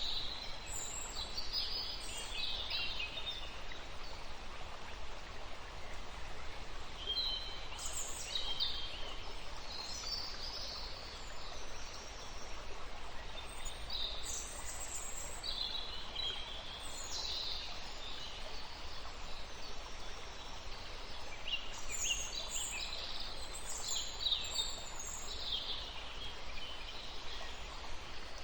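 Birds chirping in short clusters of high notes every few seconds, over a steady background hiss.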